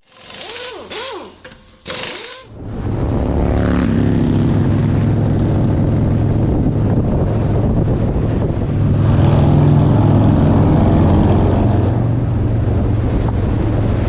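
Motorcycle engine running on the move, with road and wind noise: it picks up speed about three seconds in and gets louder again about nine seconds in. Before it comes in, a couple of seconds of short noisy bursts and gliding tones.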